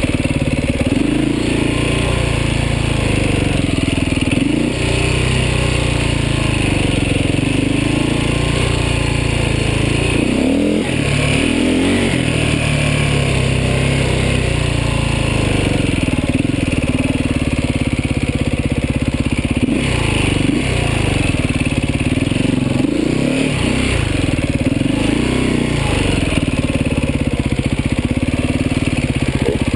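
Beta 450 RR enduro motorcycle's four-stroke single-cylinder engine under way, revving up and falling back again and again as the throttle is opened and closed on a trail.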